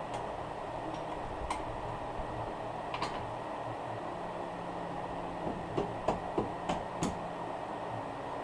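Light knocks and clicks of steel suspension bolts being fitted into a coilover's lower mount and spindle, over a steady background hum. A few scattered clicks are followed by a quick run of about five light knocks in the middle of the stretch.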